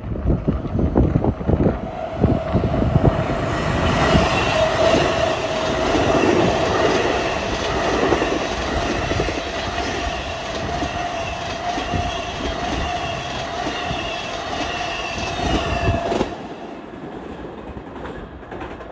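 Long Island Rail Road electric multiple-unit train passing close by, its wheels clacking over the rail joints under a steady whine. The sound cuts off abruptly near the end, leaving a fainter rumble.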